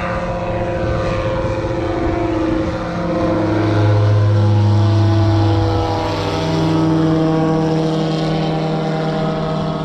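SeaRey amphibious light aircraft, its engine and propeller running with a steady droning note. It grows louder about three seconds in and eases back after about six seconds.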